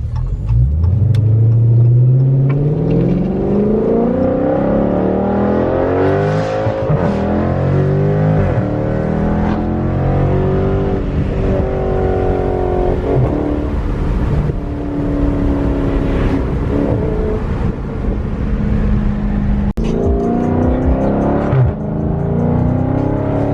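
Dodge Charger Scat Pack's 392 HEMI V8 exhaust, mid mufflers deleted and resonators kept, accelerating through the gears. The revs climb and drop back at each shift. After a short break just past halfway, the revs climb again.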